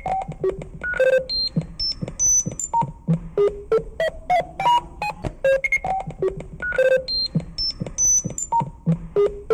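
A quick run of short electronic beeps, each held on one pitch and starting with a click, jumping up and down in pitch. The same sequence loops about every six seconds.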